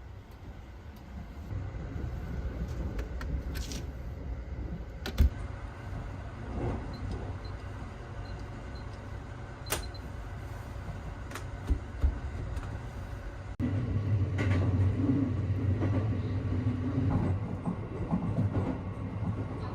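Sleeper train running, heard from inside the carriage: a steady low rumble with a few sharp clicks and knocks. It turns suddenly louder and heavier about two-thirds of the way through.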